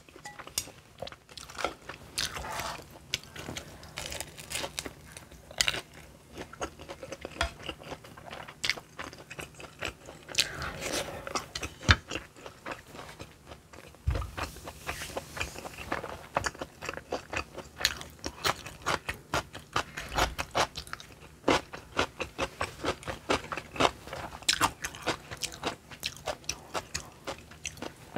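Close-miked chewing and biting of food, a dense run of short mouth clicks, with a low thump about halfway through and another a little later.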